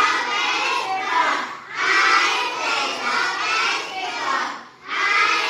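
A group of young children shouting together in loud phrases, with two short breaks between phrases.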